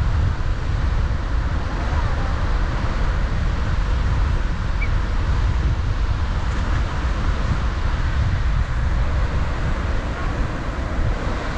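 Strong sea wind buffeting the microphone in a steady low rumble, over an even hiss of surf.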